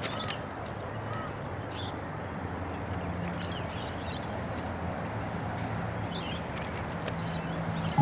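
Birds chirping now and then, short high calls scattered through, over a steady low hum and outdoor background noise.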